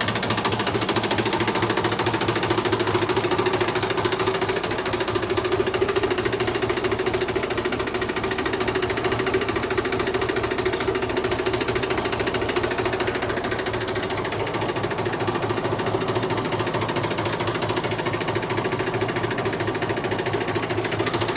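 Mahindra 265 DI tractor's three-cylinder diesel engine running steadily with an even, rapid diesel knock.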